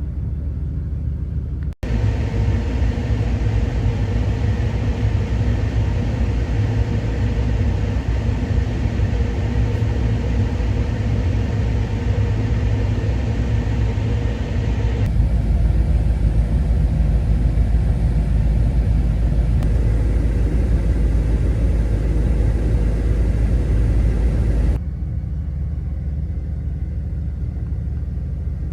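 Chevy LS V8 engine in a Jeep TJ running at a steady idle just after a cold start at about minus 35 degrees. The sound changes abruptly a few times, as at cuts.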